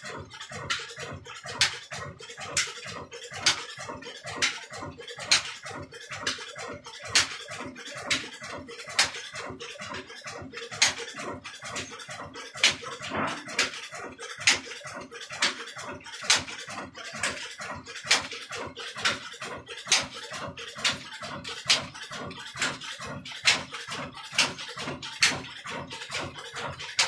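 Old Ruston Hornsby stationary diesel engine running slowly while it drives a flour mill. A sharp beat comes about once a second over a steady, fainter mechanical clatter.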